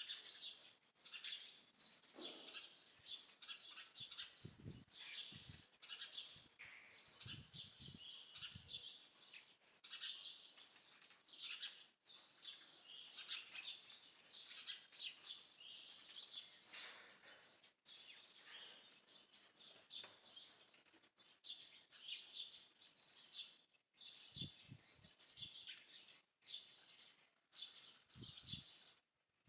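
Small birds chirping continuously in many short, high calls, with a few brief low thumps near the start and near the end.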